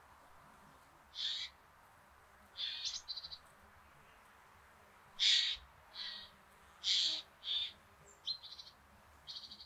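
A bird calling again and again: short, sharp, high-pitched calls about every second, several followed by a quick rattling trill.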